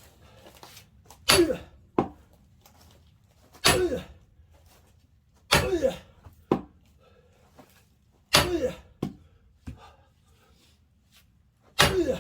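Five heavy splitting-axe blows into a large, stubborn firewood log, about every two to three seconds, each with a loud grunt of effort and some followed by a sharp knock. The log does not split.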